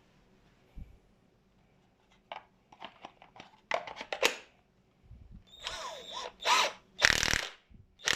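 Cordless brushless impact wrench triggered in several short bursts, its motor spinning up and down. Before them come a few clicks and knocks from handling the tool.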